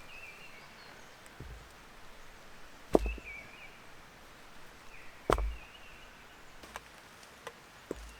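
Wood being chopped: two heavy strokes about two seconds apart, with light clicks and snaps in between.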